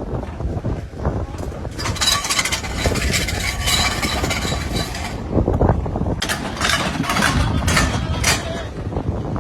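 Motor vehicle running, with a stretch of rushing noise in the first half and a run of short knocks or scrapes in the second half.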